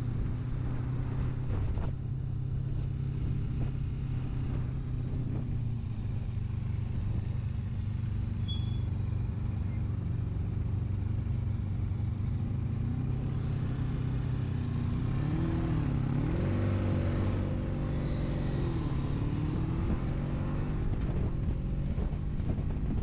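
1982 Honda Magna's V4 engine running on the move, holding a steady note. About two-thirds through, its pitch rises and falls in a few swells as the throttle is opened and closed.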